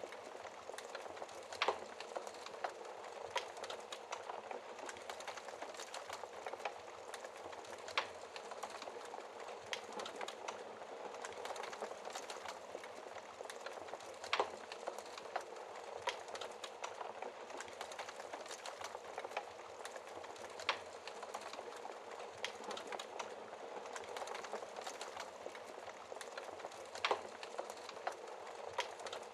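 Wood fire burning in a fireplace: a steady soft hiss of flames with constant small crackles and an occasional louder pop, about every six seconds.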